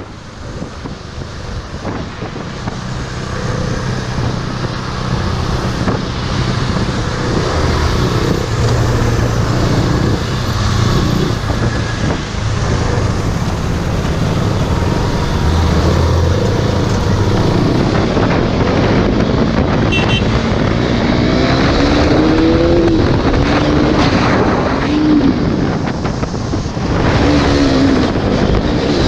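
Motorcycle engine running at speed under heavy wind rush, growing louder over the first several seconds. In the second half the engine note climbs and drops several times as it revs through the gears.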